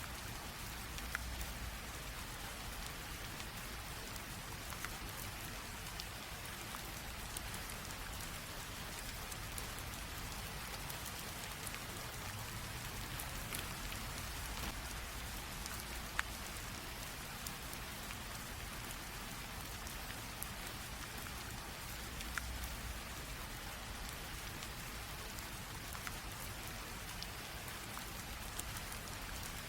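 Light rain drizzle: a steady, even hiss of rainfall with scattered single drops ticking on a surface.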